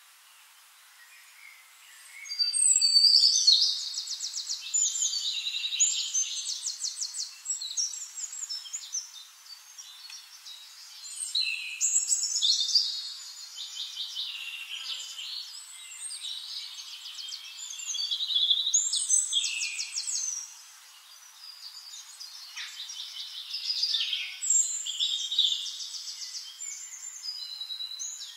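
Songbird singing in long phrases of fast high trills and short whistles, starting about two seconds in and repeating every few seconds with brief pauses between.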